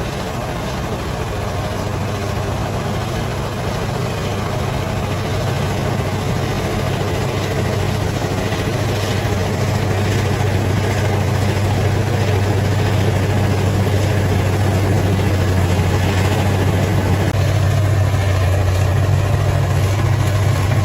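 Bulldozer's diesel engine running at a steady pitch, slowly growing a little louder.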